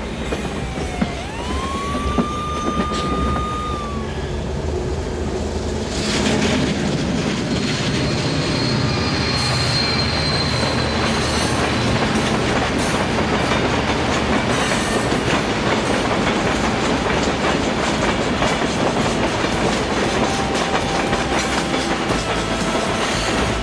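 Train running on its rails with a clickety-clack: a wheel squeal glides up and holds for a couple of seconds about a second in, then from about six seconds the train's rumble grows louder and steady, with a thin high squeal of the wheels around ten seconds.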